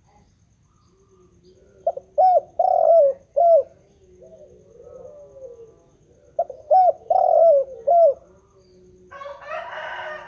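Spotted dove (tekukur) cooing: two phrases of four notes each, with fainter, lower cooing between them. Near the end comes a brief, raspy, noisy sound.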